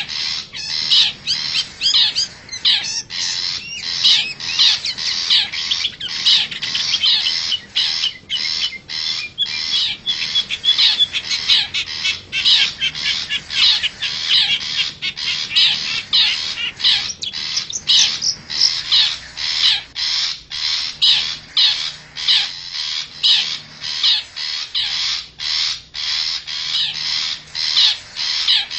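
Long-tailed shrike (cendet) giving short, harsh, scratchy calls in a rapid unbroken series, several a second, as a lure call for wild shrikes.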